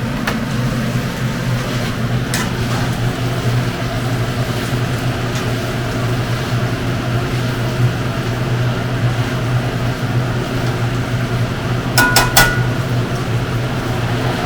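Steady mechanical fan hum, typical of a stove exhaust fan running over a cooking pan. A utensil clinks against the pan once about two seconds in, and again several times quickly near the end, with a brief ring.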